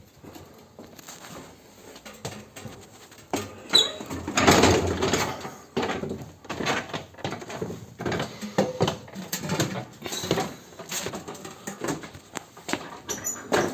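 Irregular knocks, scrapes and clatter of hands-on building work, busiest and loudest about four to five seconds in.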